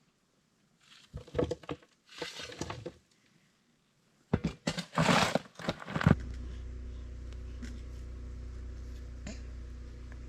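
Short separate bursts of scuffling and crunching noise, then, about six seconds in, an abrupt switch to an engine running steadily with a low hum.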